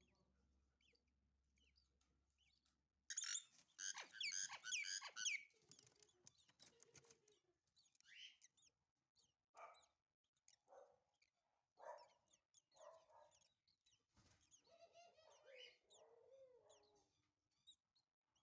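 Lovebirds chirping: a dense burst of rapid high chirps about three seconds in, the loudest part, then scattered shorter calls.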